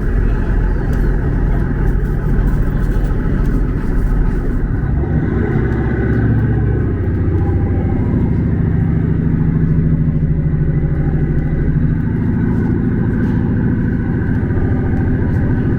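Steady vehicle running noise with an engine note. The note picks up about five seconds in and then holds steady.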